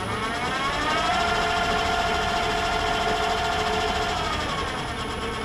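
Myford lathe running with its change-gear train driving the lead screw for power feed: a steady mechanical whir and gear hum, with a whine that rises in pitch over the first second and drops away about four seconds in.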